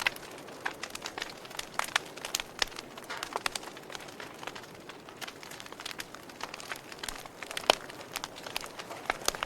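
Wood fire crackling in a fireplace: irregular sharp pops and snaps over a soft steady hiss, with one louder snap about three-quarters of the way through.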